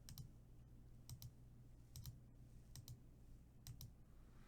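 Computer mouse button clicked about once a second, each a faint quick double tick of press and release, as a list randomizer is run several times over.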